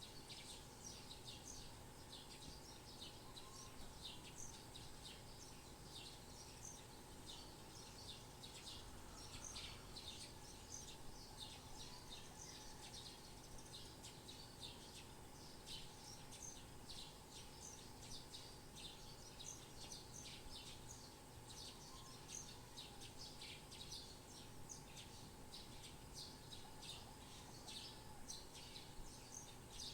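Small birds chirping faintly, a steady stream of short, high chirps coming several times a second over a faint background hiss.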